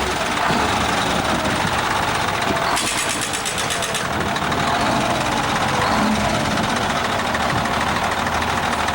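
Heavy truck diesel engine idling steadily, with a brief high hissing rattle about three seconds in.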